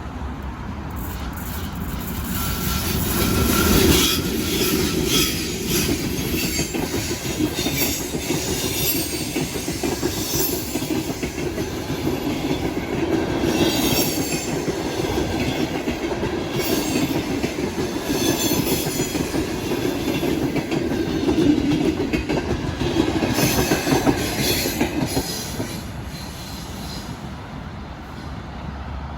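Passenger train passing close by, its wheels clattering rhythmically over the rail joints with some wheel squeal. It builds over the first few seconds and dies away near the end.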